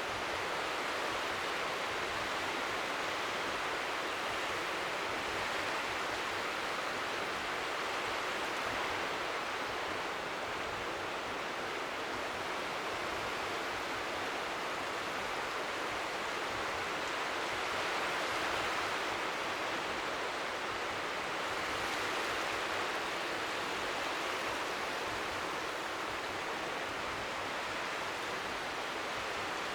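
Steady rushing white noise of strong wind by the sea, with faint waves lapping on the shore underneath. It swells and eases slightly.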